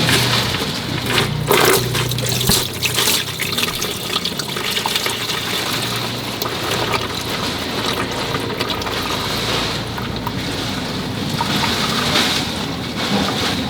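A steady rush of running or spraying water, with a faint low hum underneath and a few sharp clicks.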